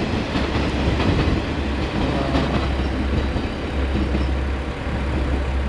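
Steady low rumble and hiss of a diesel train running in a rail yard, with a few faint clicks.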